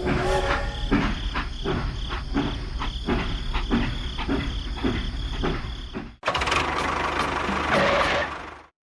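A small motor on a DIY model machine running with an even clatter of about three knocks a second. It cuts off about six seconds in, and a steadier mechanical noise runs on until it stops suddenly near the end.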